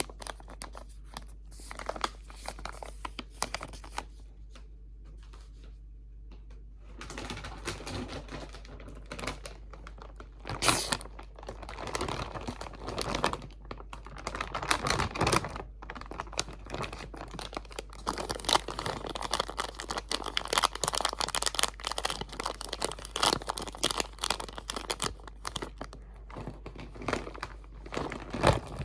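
Crinkly material crinkled by hand right at the microphone: a dense run of sharp little crackles and snaps that thins out for a few seconds, then picks up again and gets busier.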